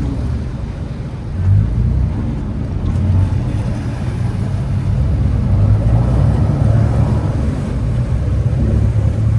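Motorboat engine on the canal, running with a steady low rumble that swells a little about halfway through.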